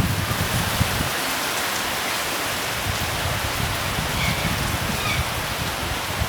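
Steady rain falling, an even hiss of drops on surfaces, with a low rumble fading out in the first second.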